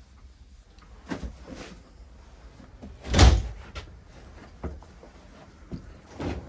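A door closing with one loud clunk about three seconds in, with lighter knocks and rattles before and after it.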